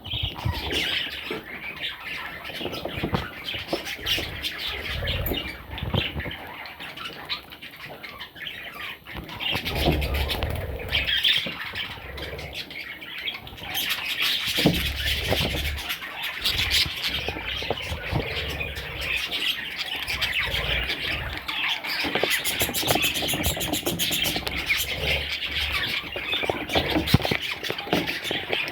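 Budgerigars chattering with squawks, a dense continuous chatter of calls.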